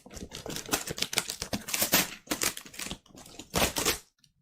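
Fan-mail packaging being torn open by hand: a rapid run of crackling and tearing paper or plastic, loudest just before it stops about four seconds in.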